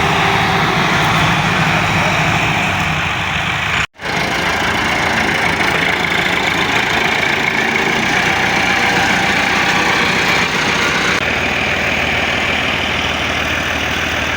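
Tractor diesel engine running steadily. The sound cuts out for a moment about four seconds in.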